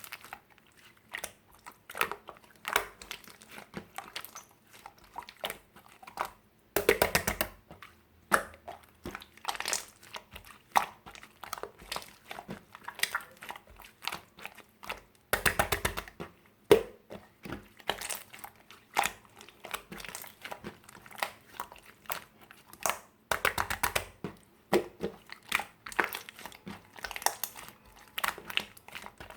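Crunchy, crackling squishing of a soft material worked by hand, with rapid runs of clicking pops about three times.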